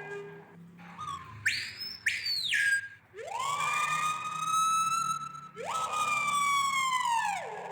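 A bird mimicking an ambulance siren: clear whistled wails that sweep up, hold, then slide down like a siren. Two short, high whistles come between the wails.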